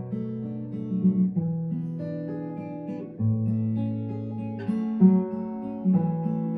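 Acoustic guitar playing a slow instrumental piece, picked notes ringing over held bass notes.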